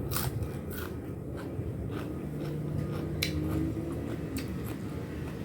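Close-up eating: chewing with small crunches and clicks, over a steady low hum.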